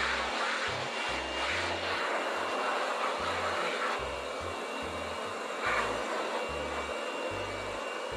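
Corded handheld electric blower running steadily, its air rushing over a wet tiled floor and plastic slat panels, with a few brief louder surges as the nozzle is swept.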